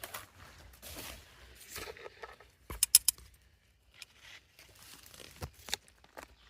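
Irregular rustling and crinkling handling noises, with a quick cluster of sharp clicks about three seconds in.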